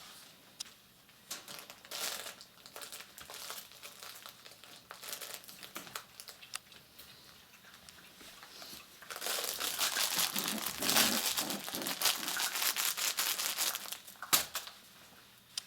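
Crinkling and rustling as six-week-old puppies play, scattered at first, then much louder and denser for about five seconds from about nine seconds in, with a sharp knock near the end.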